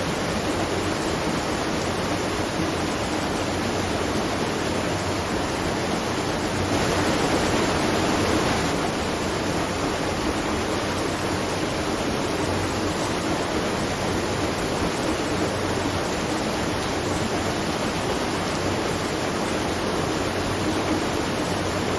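Steady rush of water falling and splashing at a watermill, swelling a little for about two seconds around seven seconds in.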